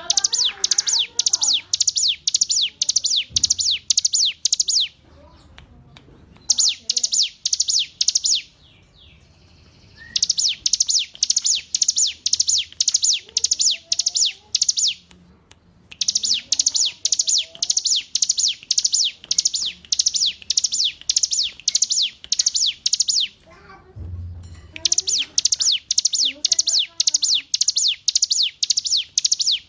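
Ciblek gunung, a mountain prinia, singing a fast string of sharp, evenly repeated high notes, about three a second, in four long bouts with short pauses between them. Fainter lower chirps sound in the gaps.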